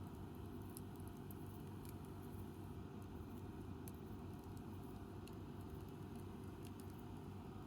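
Wood campfire burning, with sparse faint crackles and pops scattered through it over a steady low rumble.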